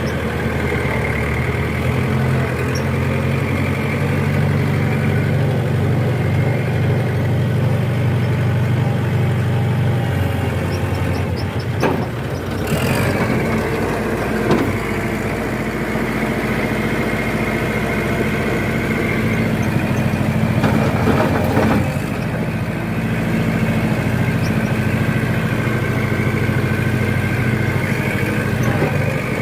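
Kubota tractor's diesel engine running steadily. A few sharp knocks come about twelve and fourteen seconds in, and the engine's low note shifts around then and again near twenty-two seconds.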